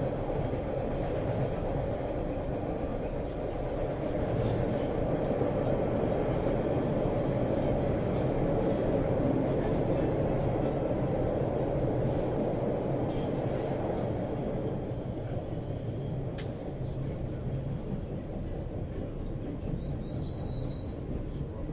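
Subway train running: a steady rumble that swells and then eases off, with a faint high squeal coming in near the end.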